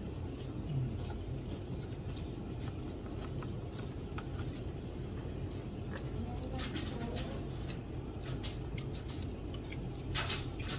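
Steady low background hum with scattered light clicks and taps of food containers and utensils being handled. About two-thirds of the way in, and again near the end, a flurry of clicking comes with a thin, high, steady whine.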